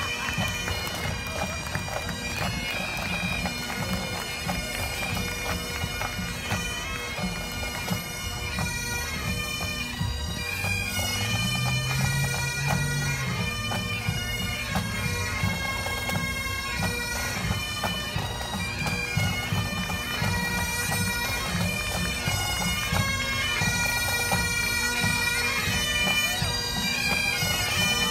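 Pipe band playing: Highland bagpipes sounding a tune over their steady drones, with drums beating beneath. It grows louder as the band marches closer.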